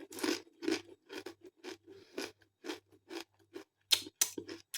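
Potato crisps being chewed close to the microphone: a steady run of short crunches, about two a second.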